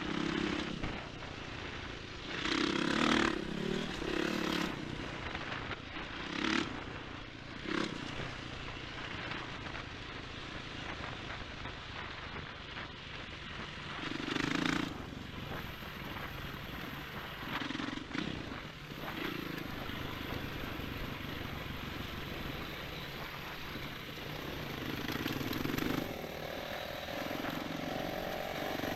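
Enduro motorcycle being ridden, its engine revving up and easing off again and again over a steady rushing noise.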